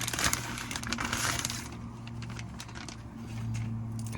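Packaging of a new bonnet release cable being handled during unboxing: rustling for about the first second and a half, then scattered light clicks and taps, over a steady low hum.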